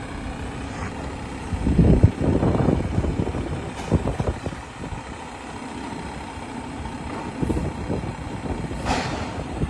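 Garbage truck engine running, a steady low rumble with a louder surge about two seconds in and a few short knocks later on.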